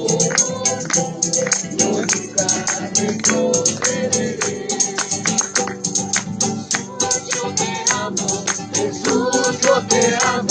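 Hymn music played live: a tambourine keeping a quick, steady beat under instruments and group singing.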